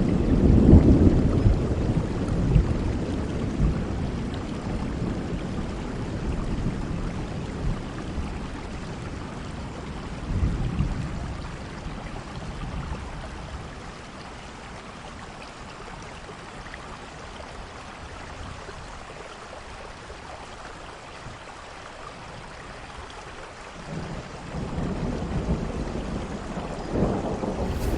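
Steady rain with rolling thunder. A loud low rumble dies away over the first few seconds, a shorter one comes about ten seconds in, and another builds near the end.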